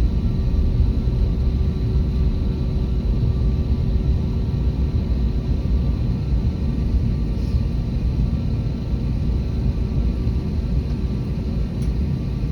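Airbus A321neo jet engines running: a steady deep rumble with a faint steady hum over it.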